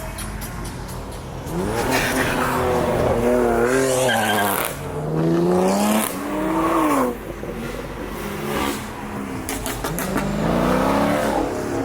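Car engine revving hard several times, its pitch climbing and dropping in three rev-ups.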